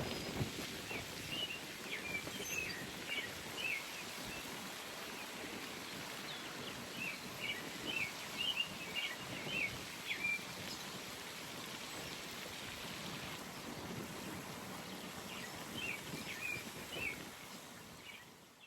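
A songbird singing three short phrases of quick chirps over a steady outdoor hiss of pond ambience; the sound fades out at the very end.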